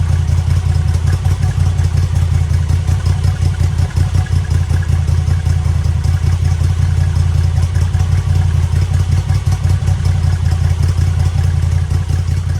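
Moto Guzzi V85TT's air-cooled transverse V-twin engine idling steadily, with no revving.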